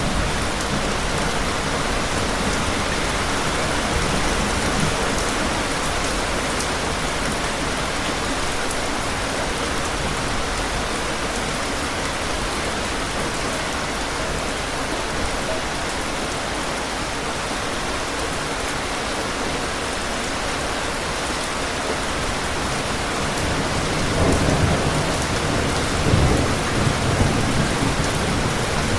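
Steady, heavy rain falling. Low rolls of thunder swell about three-quarters of the way through, and these are the loudest moments.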